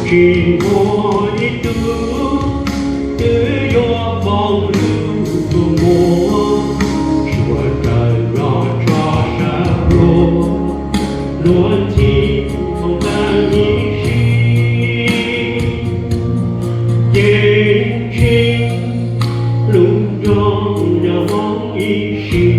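A church group singing a gospel song together, with accompaniment that keeps a steady beat under a sustained bass line.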